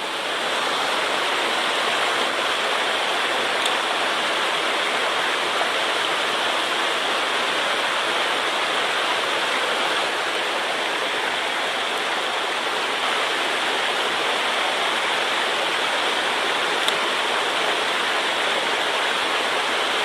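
Fast water of a mountain stream running high, a steady unbroken rush.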